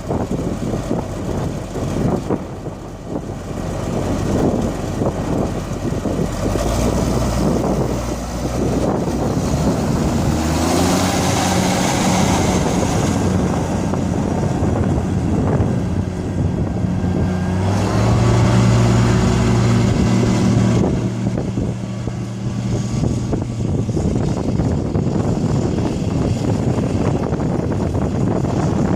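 1984 White 2-155 tractor's diesel engine running, its engine note rising and falling several times.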